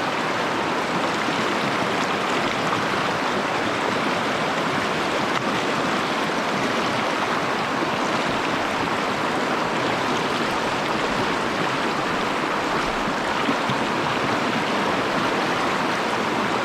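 Fast-flowing mountain stream running steadily over rocks, a constant rush of water.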